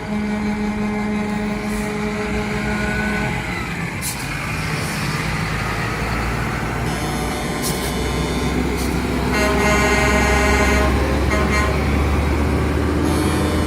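Truck horns sounding over the low rumble of heavy truck engines. A held horn chord dies away about three seconds in, the engine rumble grows stronger from about six seconds, and another horn sounds around ten seconds.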